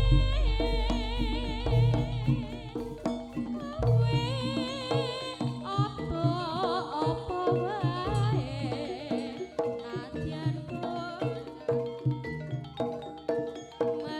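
Live Javanese traditional ensemble music (tabuhan by panjak players): drums beating under steady pitched tones, with a high melody line that wavers widely in pitch.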